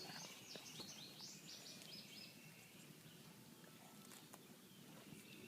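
Faint birds chirping: a run of short high notes in the first two seconds or so, then near silence with a little background hiss.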